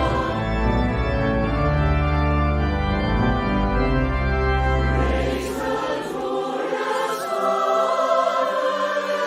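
Choir singing a hymn with organ accompaniment, in sustained chords. The organ's deep bass notes drop out about six seconds in.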